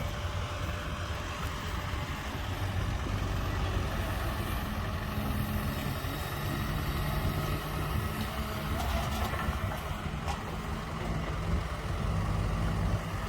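Six-wheel diesel dump truck engine running steadily with a low drone.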